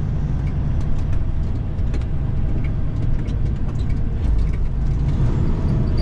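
Caterpillar 3406E inline-six diesel of a Freightliner FLD120 semi truck running steadily while the truck is driven, with scattered light rattles and clicks.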